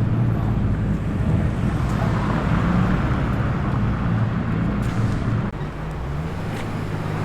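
Car engine running at low revs as a car rolls slowly past, with a deep, steady note. About six seconds in it eases off and settles into a slightly quieter, lower hum.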